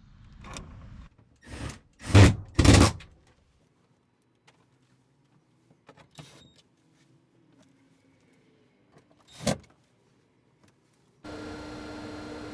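A few short, loud bursts of work noise. Near the end a Heng's Vortex RV roof vent fan starts running with a steady rushing sound and a hum, moving air but hardly quieter than the old fan.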